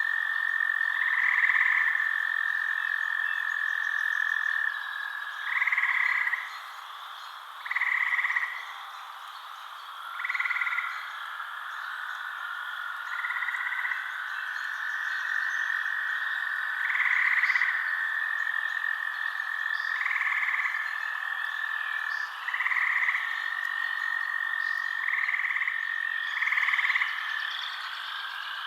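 Frogs calling at night: short croaking calls, each under a second, repeating every two to three seconds over a continuous high trill.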